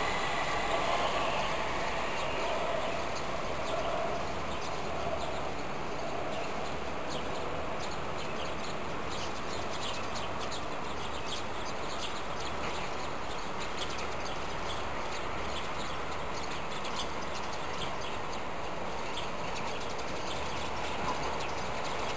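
Steady outdoor noise beside the tracks. A train's whine fades out in the first second or two, and small birds chirp repeatedly in the middle of the stretch.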